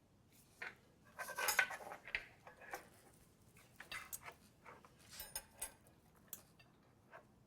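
Scattered light clinks and taps of cutlery on plates and dishes as a meal begins, busiest about a second in.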